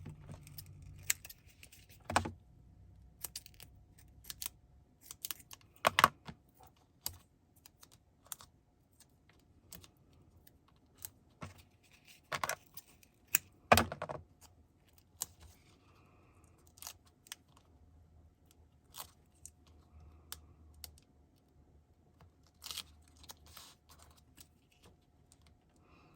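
Irregular taps, clicks and light rustles of hands handling paper and craft supplies on a tabletop while a card panel is raised with foam adhesive; a few taps are louder than the rest.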